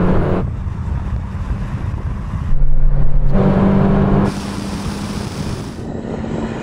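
Four-cylinder car engine at full throttle during a drag-race run, with a shift in pitch about two and a half seconds in as a gear is changed, loudest for the next couple of seconds.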